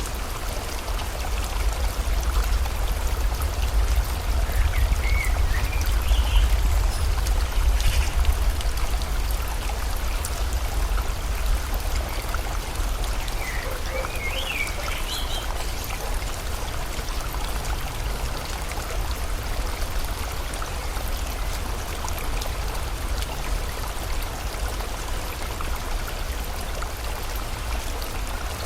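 Steady rush of river water mixed with falling rain, with a deep rumble underneath that is strongest in the first ten seconds. A few short bird chirps come about five seconds in and again around fourteen seconds.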